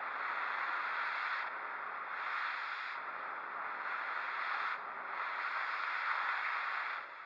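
Electric welding arc crackling on the backhoe boom's steel in a few short runs. It stops abruptly near the end.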